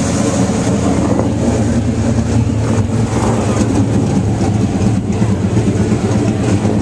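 Car engine idling steadily, its sound low and even throughout.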